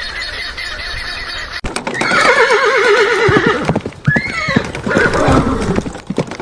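A horse neighing: a long quavering whinny starts about two seconds in, then a shorter call follows, with clip-clop knocks of hooves. Before it, a different steady sound cuts off abruptly.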